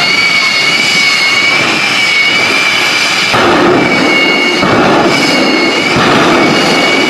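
Jet engine on a truck running: a steady high turbine whine over a loud rush of exhaust. About halfway through, three surges of louder, deeper rushing come one after another, each briefly covering the whine.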